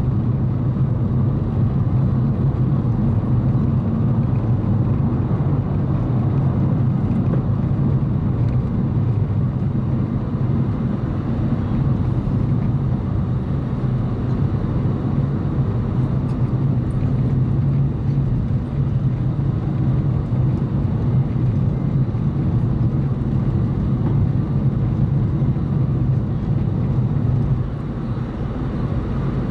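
Car driving at steady speed, heard from inside the cabin: a constant low engine and road hum with tyre noise, dipping slightly in loudness near the end.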